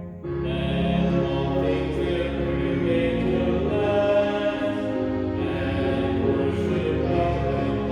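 Music with voices singing slow, sustained, chant-like lines; the sound dips briefly just after the start before a new phrase begins.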